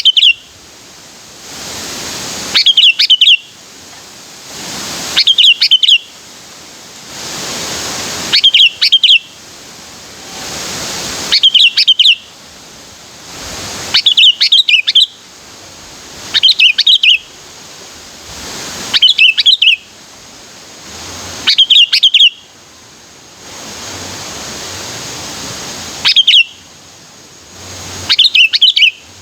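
Sooty-headed bulbul singing a short, loud, repeated song phrase about every two and a half to three seconds, with one longer pause past the middle and a steady hiss between phrases.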